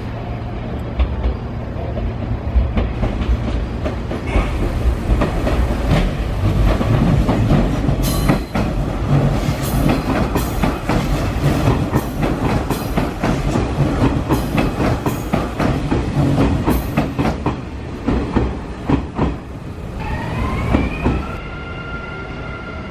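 Hanshin 5700-series electric commuter train running close past, a heavy rumble with its wheels clacking rapidly over rail joints and points. Near the end, a rising electric whine that levels off into a steady tone.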